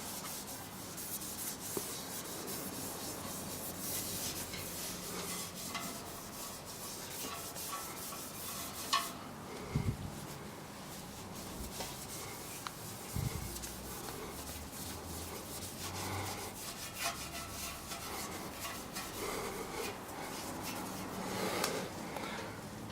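Hand rubbing and polishing of a stainless-steel exhaust, an uneven scrubbing with a few knocks partway through.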